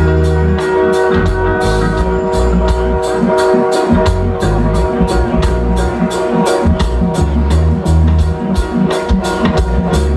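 Reggae band playing an instrumental passage: drum kit with an evenly spaced cymbal beat, bass, guitar and sustained keyboard chords.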